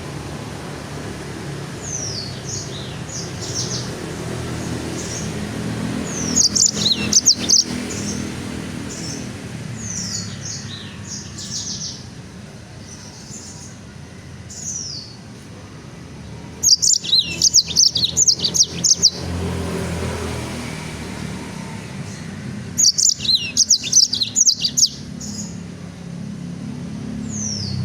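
A songbird chirping: quick, high, downward-sweeping chirps scattered throughout, with three loud runs of rapid chirps, about 7, 17 and 23 seconds in. A steady low rumble sits underneath.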